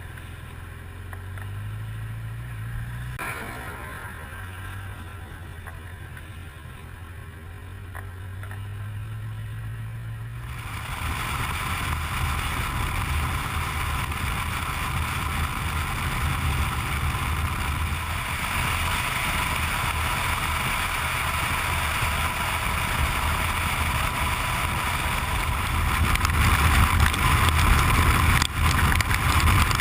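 Motorcycle engine running with a steady low hum, then from about ten seconds in a loud rush of wind and road noise joins it and grows louder toward the end, as when the bike gets up to speed.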